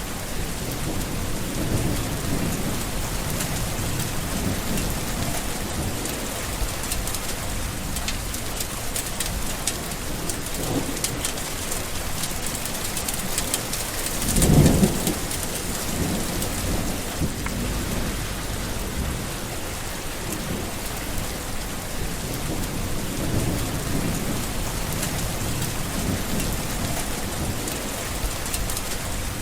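Steady, heavy rain with low rumbles of thunder rolling in and out. One louder thunderclap comes about halfway through.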